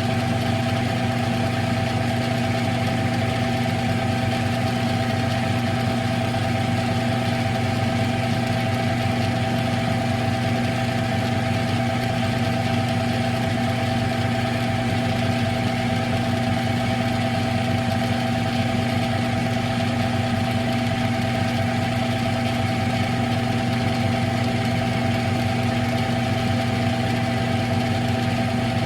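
Smithy CB-1220XL 3-in-1 lathe running at a constant speed, a steady, unchanging machine hum.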